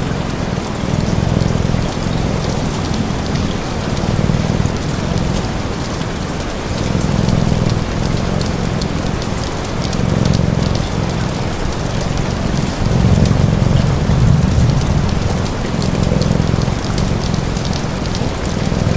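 Steady rain falling, with fine crackles from a log fire, and a cat purring underneath in low swells that rise and fall every two to three seconds with its breathing.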